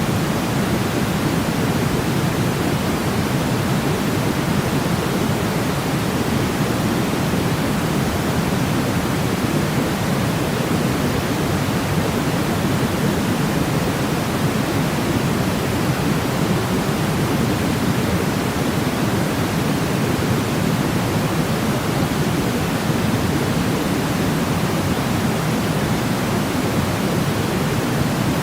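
Steady white noise for baby sleep: an even, unbroken shush, deeper than pure hiss, with most of its weight low and no change in level.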